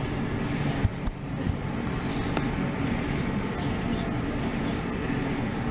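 Steady rumble of an electric suburban train running, heard inside the passenger carriage, with a couple of sharp knocks about a second in.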